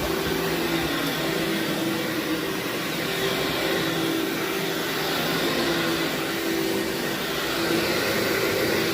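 Vacuum cleaner running steadily on carpet: an even rushing noise with a steady hum.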